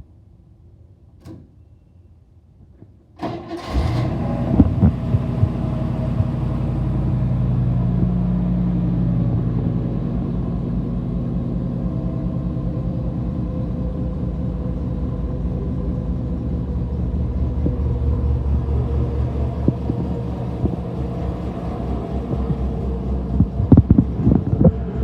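1957 Chevrolet engine cold-started: it fires about three seconds in and settles into a steady idle, a little faster for the first few seconds.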